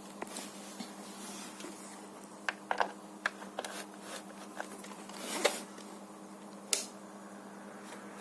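Mini dehumidifier running with a steady low hum. Several sharp clicks and brief rustles of handling come in the middle, the loudest a short swell about five and a half seconds in and a click soon after.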